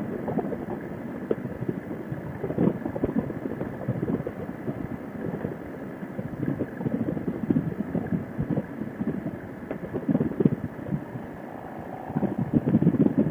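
Wind buffeting a motorcycle helmet headset microphone at road speed, uneven and gusty, with the Harley-Davidson Sportster's V-twin engine running underneath.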